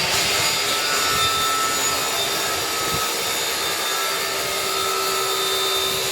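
Power tool running steadily during exhaust work, a whining hiss with a few steady tones and no pauses.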